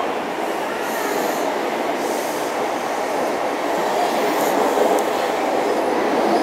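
Passenger train coaches rolling past along a station platform: a steady rumble of wheels on rail that grows slightly louder in the second half, with a few brief faint high hisses.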